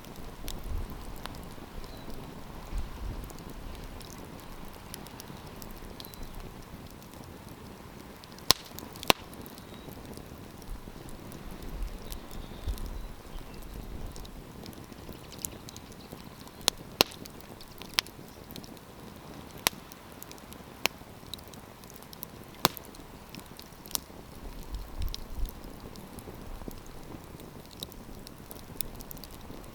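Wood campfire crackling, with about ten sharp pops scattered over a steady soft hiss. A low wind rumble on the microphone comes and goes a few times.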